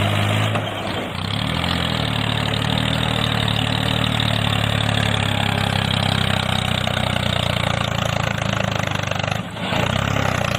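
An engine running steadily at idle, dipping briefly about a second in and again near the end.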